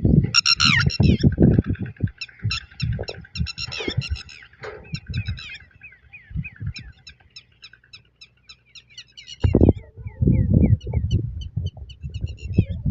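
Killdeer chicks peeping: a quick series of short, high, thin peeps, loudest at the start. Bursts of low rumbling noise are heard at the start and again over the last few seconds.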